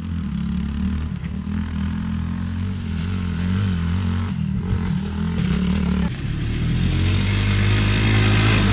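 Pit bike engine running and being revved, its pitch rising and falling with the throttle and getting louder near the end as the bike rides past.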